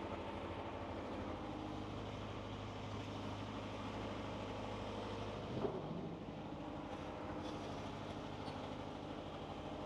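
Engine running at a steady, unchanging drone, with a single brief knock a little past halfway.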